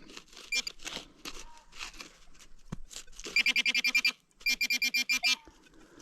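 Metal-detecting pinpointer giving two quick bursts of rapid beeps, about ten a second, as it is probed over a freshly dug hole, with faint scraping of soil between.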